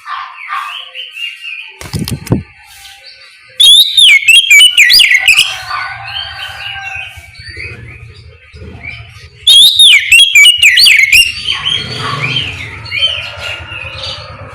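Oriental magpie-robin (kacer) singing in full, open 'ngeplong' style: varied whistled, gliding phrases, with two loud bursts of song and quieter phrases between. A brief low thump about two seconds in.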